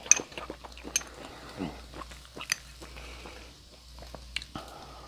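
Close-miked chewing and mouth sounds of someone eating shrimp, with a few sharp clicks of a metal fork against a small cup.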